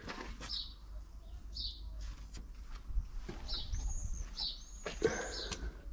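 Small birds chirping, short high chirps repeated every second or so, with a few arched whistles in the second half. A low rumble runs underneath, and there are two light knocks.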